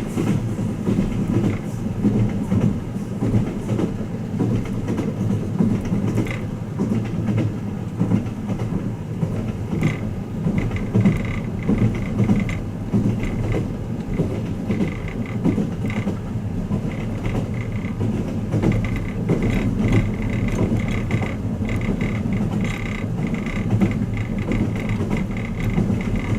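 Twilight Express Mizukaze train running, heard from inside a guest compartment: a steady low rumble of wheels on the rails, with light creaks and rattles of the car coming and going.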